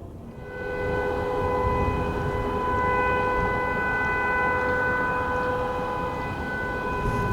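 Steady turbine whine over a low rumble, coming up about half a second in and then holding one even pitch.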